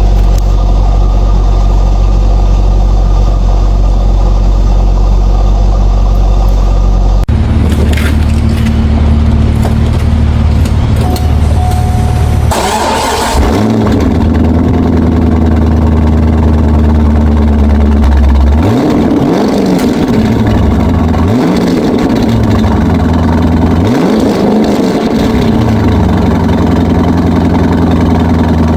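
Chevrolet C5 Corvette V8 exhaust running at a steady idle, first through the stock mufflers. After two changes it idles and is revved three times with the mufflers cut out, the pitch rising and falling with each blip.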